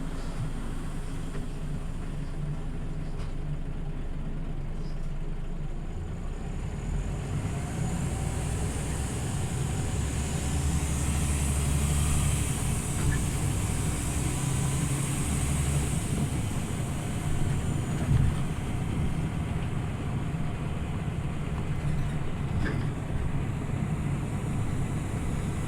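Scania OmniLink CL94UB city bus running: a steady low engine and drivetrain rumble that grows louder through the middle stretch, then eases back, with a few light clicks and knocks.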